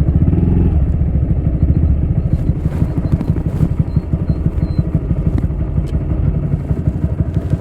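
Honda Grom's single-cylinder 125 cc engine running through a Yoshimura full exhaust system, with a short swell of revs just after the start. It then settles into a steady, low, pulsing idle.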